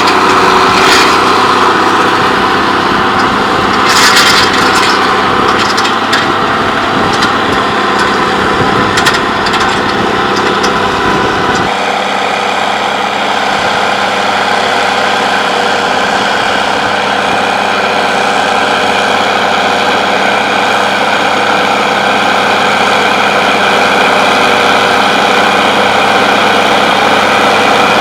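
Case IH Magnum 7210 tractor's six-cylinder diesel engine running steadily while pulling a power harrow, with a few short knocks early on. About twelve seconds in, the sound changes abruptly and the low part drops away.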